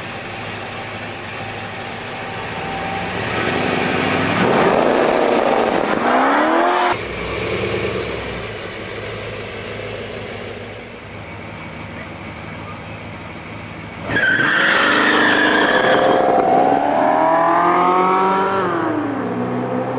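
V8 engines of two Corvettes, a red C2 Sting Ray and a white C4, at a drag-strip start line. One engine revs hard and climbs in pitch, then cuts off sharply, and the cars sit idling. About fourteen seconds in, both engines go to full throttle at the launch, the sound jumping in loudness and climbing in pitch, dipping at a gear change and climbing again before falling near the end.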